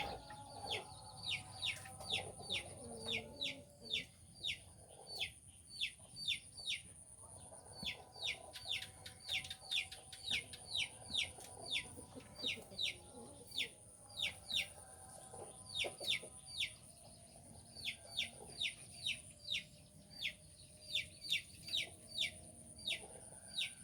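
A wild bird calling in a long series of short, sharply falling notes, about two a second with a few brief pauses, over a steady high-pitched whine.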